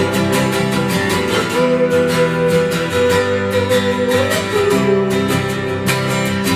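Instrumental passage of an acoustic, drumless band: strummed acoustic guitars over bass, with no singing. A long held lead note runs on top and slides to a new pitch about four seconds in.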